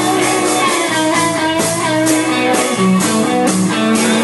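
Live band playing a soul-rock groove, guitar to the fore over a steady drum beat, in a short instrumental stretch between sung lines.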